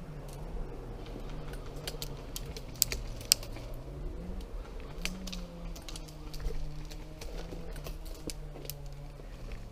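Irregular sharp clicks and crackles, with two louder snaps about three seconds in, over a low hum that wavers up and down in pitch.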